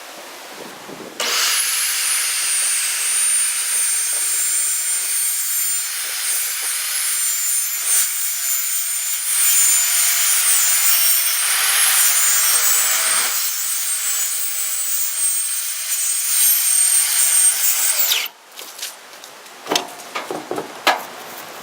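Circular saw ripping through a plywood sheet: it starts suddenly about a second in and runs steadily for about seventeen seconds, then stops abruptly. A few knocks and clatters follow near the end.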